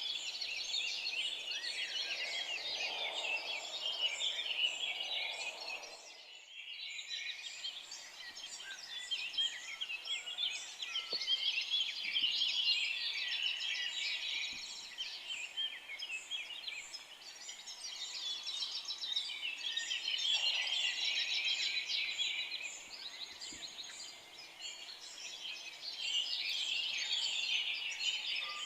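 A chorus of forest songbirds, many birds chirping and trilling over one another without a break, with a softer, lower call now and then. The whole sound briefly cuts out about six seconds in.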